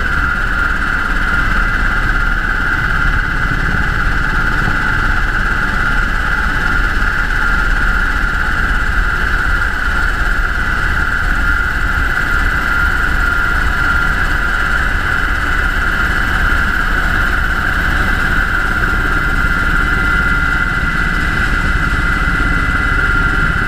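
UH-60 Black Hawk helicopter in flight: a steady drone of rotor and turbines with a constant high whine over it.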